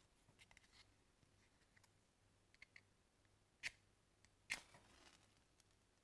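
A few faint clicks, the sharpest two about two-thirds of the way through, the second followed by a brief trailing noise, as the paraffin firelighter in the wood stove is being lit.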